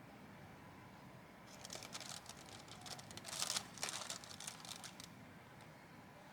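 A few seconds of rustling and crinkling with quick light clicks, loudest in the middle, over a faint background.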